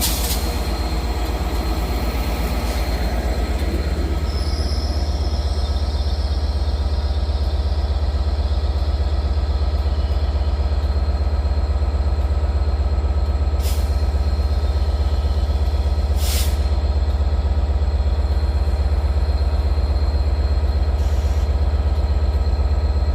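Transport for Wales Class 197 diesel multiple unit running, a steady deep drone that grows slightly louder. Two short sharp sounds come about 14 and 16 seconds in.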